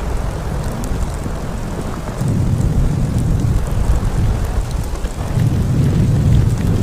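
Storm wind gusting: a low rumble that swells twice, with faint scattered ticks.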